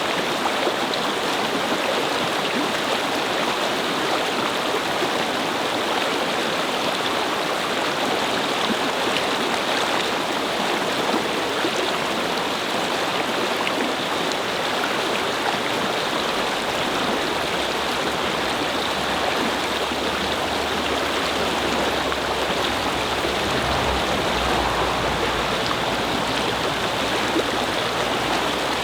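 Brook flowing and babbling steadily over stones. In the second half a low rumble builds and fades, a car passing on a nearby road.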